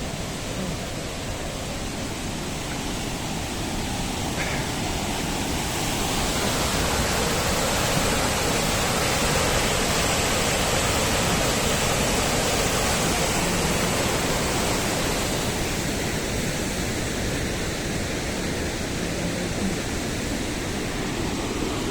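Steady rushing roar of a large mountain waterfall, the Krimml Waterfalls, water crashing down over rock. It grows a little louder after about five seconds and eases off again in the second half.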